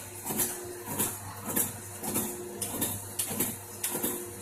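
Coin-operated kiddie boat ride running, with a repeating clatter of about two strokes a second over a steady low hum.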